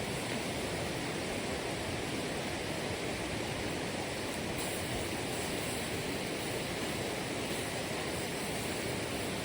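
Steady rushing water, an even roar with no surges or breaks.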